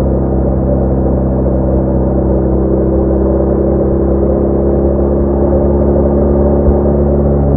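BMW R1200R's boxer-twin engine running at a steady cruising speed, a constant multi-tone drone with only slight changes in pitch.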